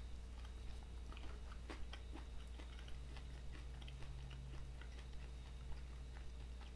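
A person chewing a mouthful of bacon, egg and cheese burger: faint, wet mouth clicks and smacks scattered all through, over a steady low hum.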